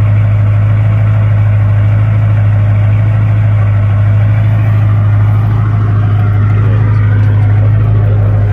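Duramax LB7 6.6-litre V8 turbo-diesel idling steadily while still cold, soon after a cold start.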